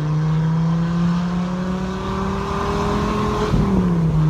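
1994 Dodge Viper RT/10's V10 engine pulling under way, its note climbing slowly, then dropping near the end as the revs fall, as at a gear change.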